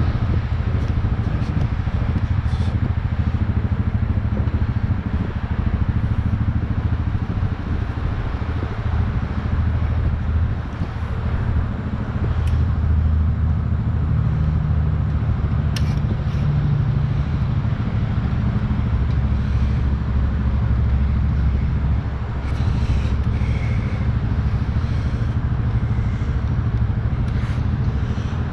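An engine running steadily, with a few light clicks and knocks over it.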